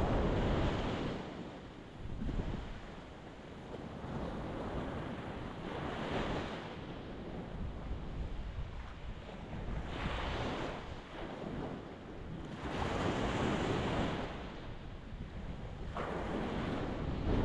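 Ocean waves breaking and washing on a rocky beach, one surge about every three to four seconds over a constant low rumble of surf.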